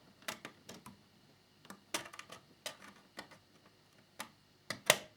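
Scattered light clicks and taps of a small screwdriver and plastic fairing parts being handled on a scale motorcycle model, with a sharper pair of clicks near the end.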